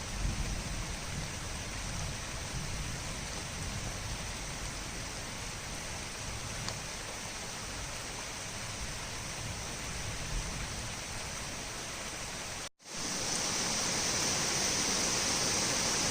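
Torrential rain falling steadily, with the tail of a thunder rumble fading in the first second. About 13 seconds in, the sound cuts out for an instant and comes back louder and hissier.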